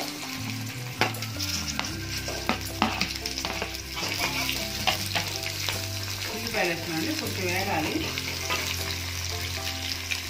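Green chillies, tomatoes and freshly added onions sizzling in hot oil in a kadai, stirred with a steel spatula that clicks and scrapes against the pan again and again.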